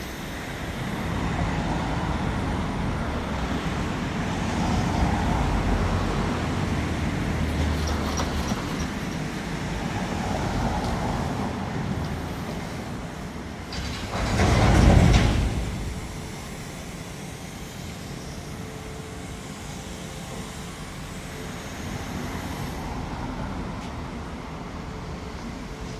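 Motor traffic: a steady engine rumble and road noise, with one vehicle passing close and loud about halfway through.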